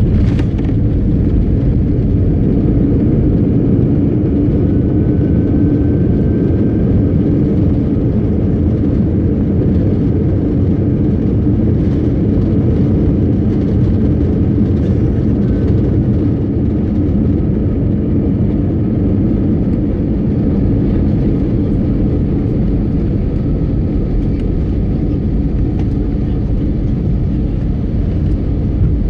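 Steady low rumble of a jet airliner's engines and rushing air, heard from inside the passenger cabin during landing.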